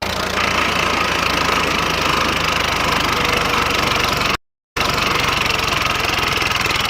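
An engine-like motor running steadily with a fast, even pulse, cut off abruptly about four and a half seconds in and starting again a moment later.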